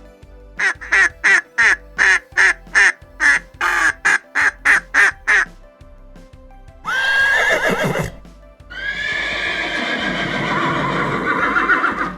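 A duck quacking in a quick run of about a dozen quacks. Then a horse whinnies twice: a short call, then a long one lasting about three seconds. Background music plays throughout.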